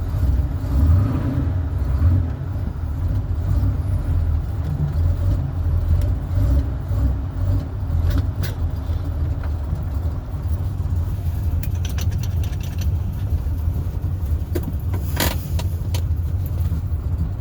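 Cold V8 engine of a 1981 Chevrolet Camaro Z28 running at a low, steady rumble just after a cold start, with the car creeping in reverse. A sharp click sounds near the end.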